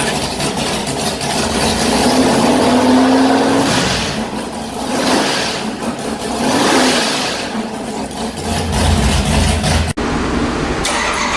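Stroked 426 Hemi V8 running on an engine dyno, revved up and down several times, then settling to a low, steady idle in the last few seconds, with a sudden brief dropout near the end.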